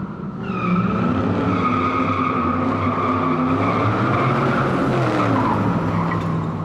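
Car tyres squealing in a steady high screech over an engine whose pitch rises and falls.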